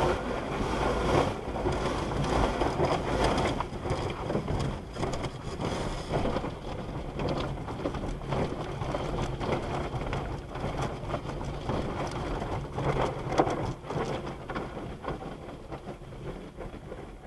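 Water from a conveyor car wash's spray jets drumming and pattering on a car's body, a dense rain-like hiss that thins out after about six seconds.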